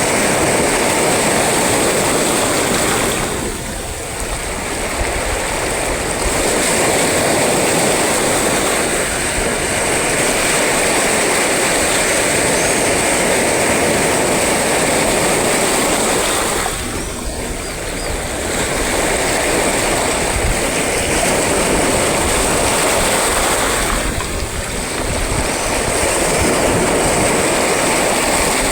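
Sea waves breaking and washing on the shore in a dense, steady wash of noise that eases briefly three times, a few seconds in, just past halfway and about three-quarters through.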